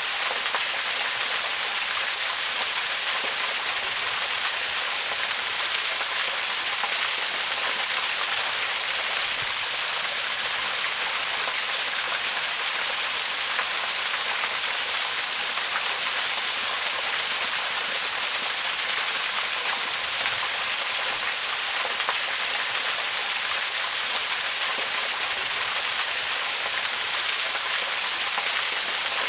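Waterfall: a steady rushing hiss of falling water, mostly high and bright with little low rumble, unchanging throughout.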